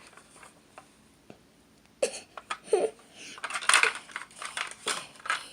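Small hard plastic toy pieces clattering and rattling in short bursts from about two seconds in, with a young child's brief wordless vocal sounds among them.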